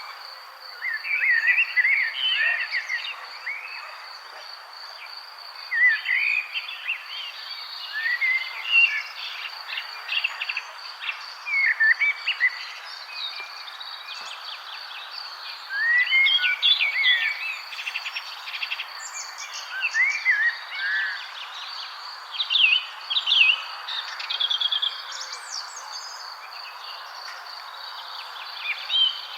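Several songbirds chirping and warbling in short, quick phrases, over a steady high-pitched trill and a soft background hiss.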